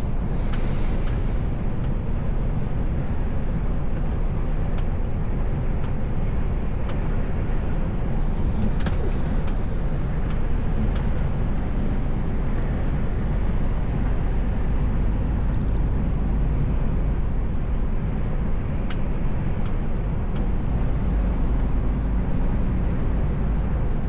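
Steady engine and road rumble inside the cab of a Mercedes Actros L truck on the move. A brief hiss comes about a second in and another about nine seconds in.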